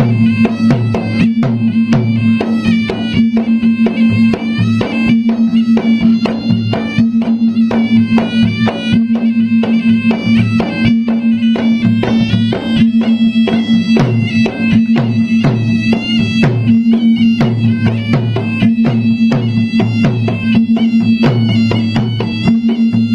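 Traditional Bugis-Makassar gendang drums beaten in a fast, steady rhythm, with a shrill reed pipe playing an ornamented melody over a held drone.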